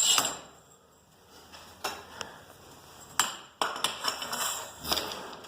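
Scattered sharp metal clinks and taps, then a spell of rattling handling noise: steel garage door torsion spring hardware being handled on its shaft.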